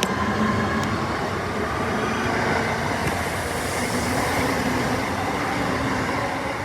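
A train running through the station close by: a steady rumble of wheels and motors with a faint whine.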